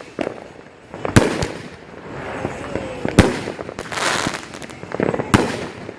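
A 500-gram multi-shot fireworks cake going off: sharp bangs about every two seconds, one of them doubled, with hissing between the reports.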